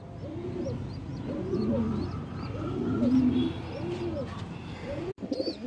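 Several domestic pigeons cooing, with low rolling coos overlapping one another, and faint high chirps above them.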